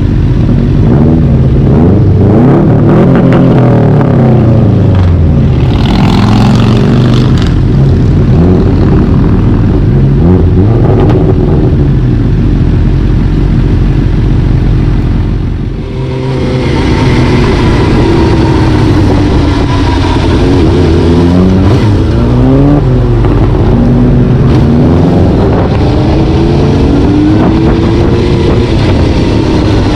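A vehicle engine driving hard, loud and close: its pitch climbs and then drops repeatedly as it accelerates and shifts gears, over a steady low rumble. The sound dips briefly about halfway through, then picks up again.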